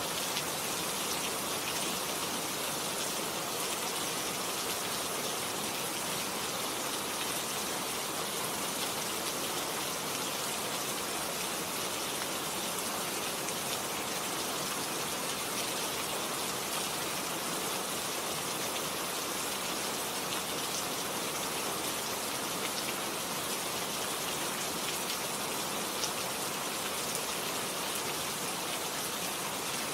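Steady rain falling on garden foliage: an even hiss with faint scattered drop ticks.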